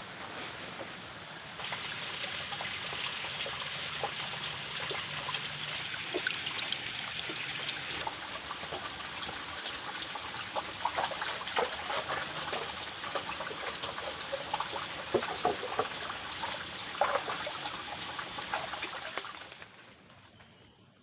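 Water trickling and splashing, a steady hiss full of small drips and splashes. It grows louder about a second and a half in and fades near the end.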